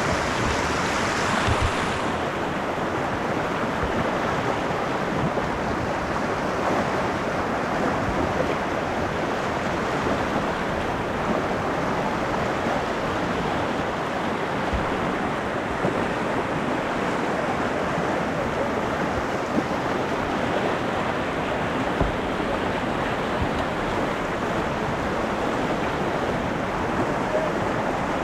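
Steady rushing of river water on a kayak run, with a few soft low thumps against the microphone.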